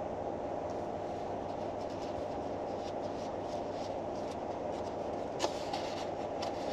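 Steady low hum of noise inside a car cabin, with faint scattered rustles and a sharp click about five and a half seconds in.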